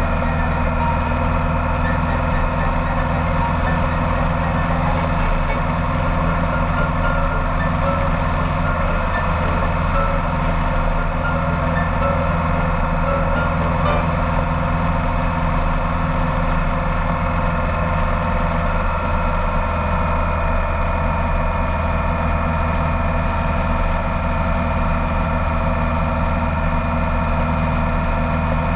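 Motorcycle engine running at a steady cruise, a loud, unchanging drone heard from a camera mounted on the bike.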